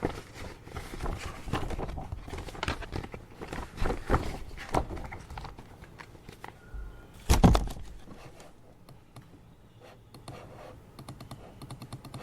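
Office desk work: paper being handled and rustled, with irregular clicks and taps, then one loud thump about halfway through. Near the end comes a quick run of computer keyboard typing.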